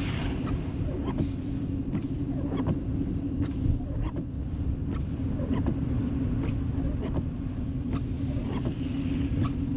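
Car cabin noise while driving on a snowy road: a steady engine and tyre rumble with frequent light ticks, about two a second.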